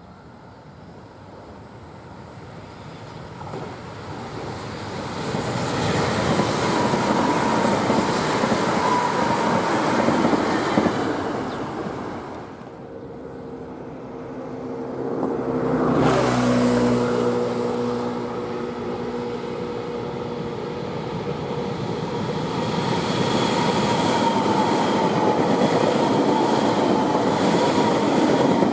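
Electric commuter trains running on an above-ground line: train noise builds over several seconds to a loud pass, dips about halfway through, then builds again, with a short stretch of steady tones about two-thirds of the way in.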